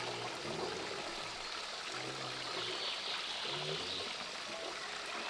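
Steady running water, like a stream trickling and flowing.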